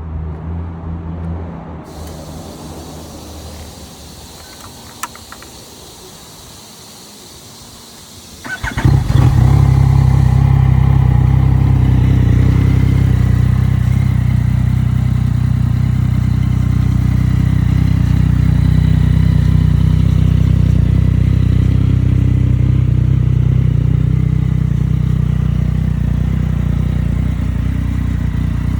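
Yamaha FZ-09's 847 cc inline-three with a Yoshimura exhaust, cranked and catching suddenly about eight and a half seconds in, then idling steadily and loudly.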